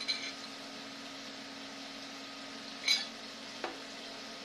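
Diced chicken frying in a skillet on high heat, a steady low sizzle. A ceramic plate with a fork on it gives two light clinks, one right at the start and one about three seconds in.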